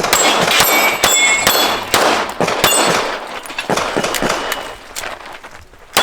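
Pistol shots in quick succession, about two a second, each followed by the ring of a struck steel target. The shots thin out near the end.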